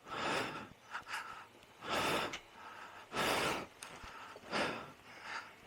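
A man's heavy breathing: four loud gasping breaths about a second apart, the breathing of a rider worn out from a long motorway ride.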